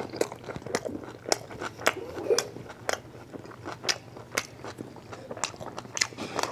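A person chewing a mouthful of a steak, kimchi and pepper taco: wet mouth smacks and crunchy clicks, irregular, about two a second.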